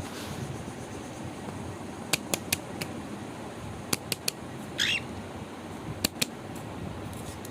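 Pet birds in a cage: one short squawk about five seconds in, among sharp clicks in quick groups of two or three, over a steady background hiss.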